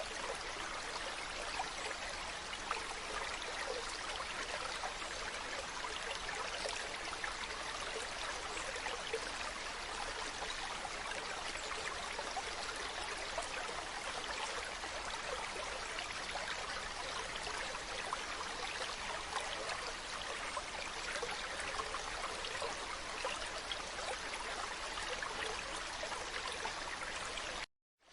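Mountain stream running steadily, an even rush of flowing water. It cuts out to silence for a moment near the end.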